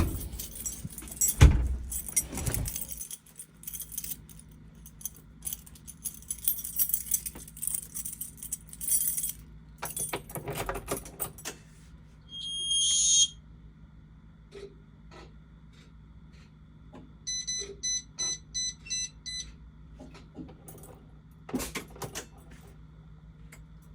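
Keys jangling and clicking in a Blue Bird Vision school bus's ignition, then a steady low hum as the electrics come on. About halfway there is one electronic dashboard beep, and later a quick run of about seven warning beeps.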